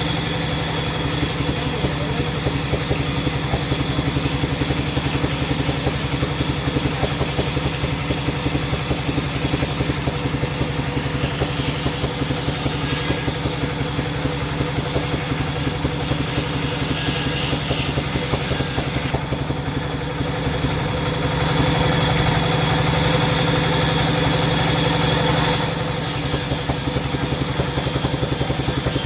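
Sawmill machinery running: a steady engine-like drone with a fast, even pulse. About two-thirds of the way through, the high hiss drops away for a few seconds, then returns.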